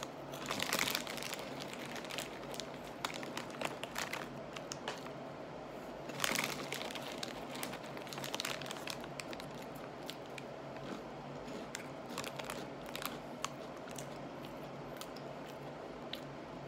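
Chewing crunchy oven-baked cheese curls: irregular crunches and crackles, with louder bursts about half a second in and around six seconds in.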